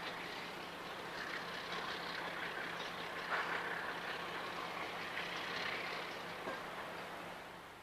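Diesel-hauled train running by: a steady rushing roll of wheels on rail over a low, even engine hum, fading away near the end.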